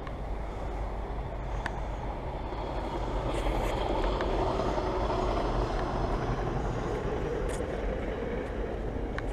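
A vehicle passing by: a steady rumble that swells from about three seconds in and fades again near the end, with a few faint clicks.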